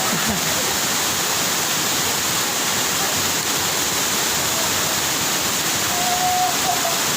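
Steady, loud rush of fast-flowing water from a waterfall or mountain stream.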